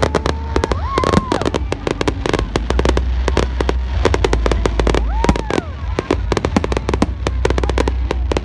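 Fireworks display: dense, rapid crackling and banging, over a steady low rumble. A few short whistle-like tones rise and then fall, about a second in, near the middle and near the end.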